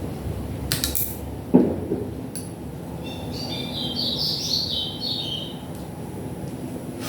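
Small clicks and a sharp knock of plastic and metal parts being handled while a Philips stereo is taken apart, then a run of high chirping for a couple of seconds from about three seconds in.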